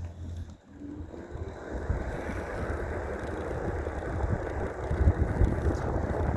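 Wind rushing over the microphone, with tyre rumble from an electric mountain bike; it swells about a second and a half in as the bike gets moving and stays loud.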